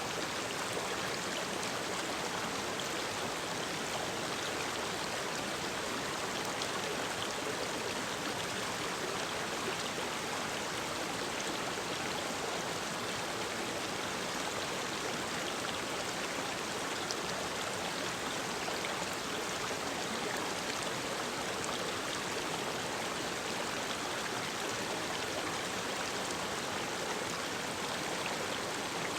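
Mountain stream running steadily over rocks, an even, unbroken rush of water.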